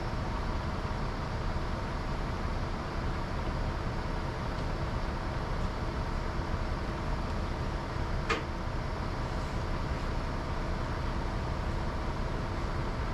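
Steady low machine hum with faint steady tones in it, and one sharp click about eight seconds in.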